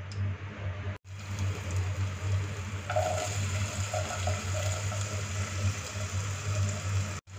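Diced potato pieces dropping into hot cooking oil in a nonstick pot on medium-low heat, giving a soft, steady sizzle. A low hum runs underneath, and the sound cuts out briefly twice.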